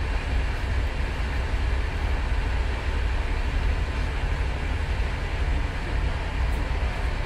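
Steady low rumble and rolling noise of a moving PKP Intercity passenger train, heard from inside the carriage.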